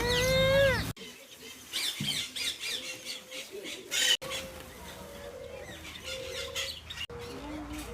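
Aviary parrots squawking and chirping: one loud rising-and-falling squawk at the start, then a flurry of quick high chirps and a sharp squawk about four seconds in.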